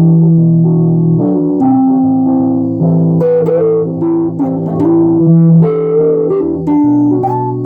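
Guitar music: a plucked guitar melody with notes bent up and down in pitch, over held bass notes.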